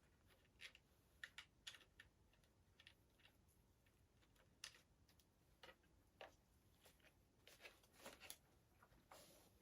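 Faint, irregular light clicks and taps of small hard objects being handled, a few every second.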